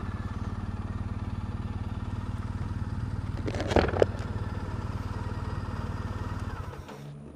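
Triumph Bonneville T100's parallel-twin engine idling with an even, steady beat. A brief louder sound comes about three and a half seconds in, and the engine sound fades out near the end.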